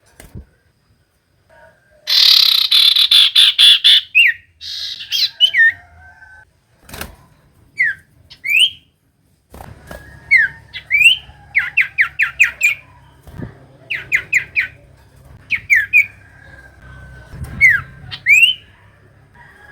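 Common iora singing: a loud, harsh chattering burst about two seconds in, then short sharp whistled notes that rise and fall, with quick runs of repeated notes.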